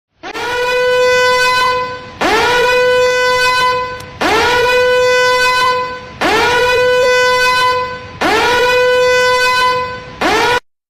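Warning alarm horn sounding in repeated blasts, about one every two seconds. Each blast swoops up quickly to a steady, buzzy tone and is held for nearly two seconds. Five full blasts play, and a sixth is cut off short.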